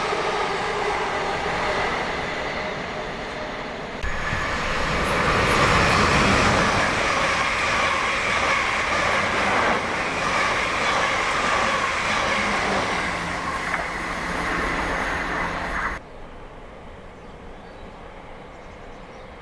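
A passenger train passing on the main line, a loud rush of rail noise with a steady whine that sinks slightly in pitch. The sound jumps louder about four seconds in and cuts off suddenly about sixteen seconds in, leaving a much quieter background.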